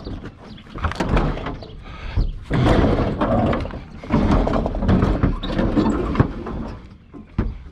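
Scrap being handled and moved: rough scraping and rattling in several stretches of about a second each, with sharp knocks, one sharp knock near the end.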